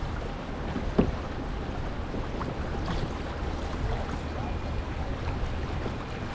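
Steady rush of wind on the microphone and water noise from a kayak moving fast across the lake, with one sharp knock about a second in.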